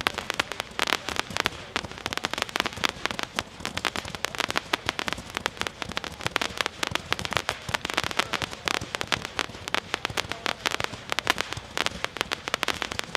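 A 432-shot Magnus 'Sky Hunters' consumer firework cake firing a rapid, unbroken string of small shots and bursts, many per second.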